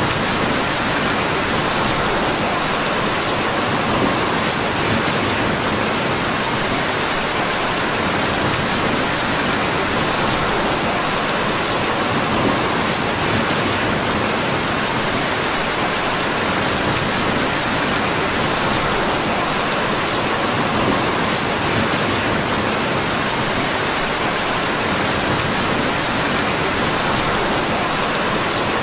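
Steady rain falling in an even, unbroken hiss, with occasional faint sharp ticks.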